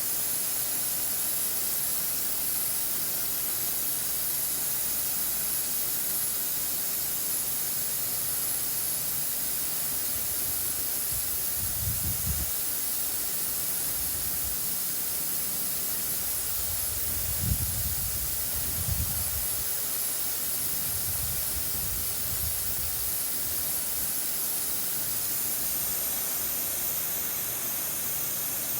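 Water sprinkler spraying with a steady hiss, broken by a few brief low rumbles around the middle.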